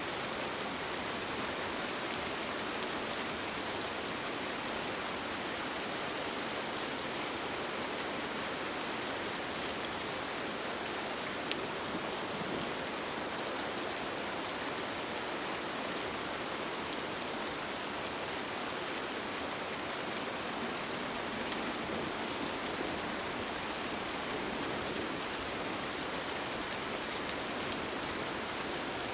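Steady rain falling on a tent, heard from inside, with scattered single drops tapping through the even hiss.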